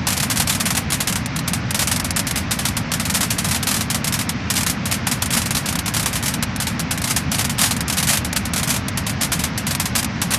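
Wood fire crackling and popping: dense, rapid crackles over a steady rushing hiss.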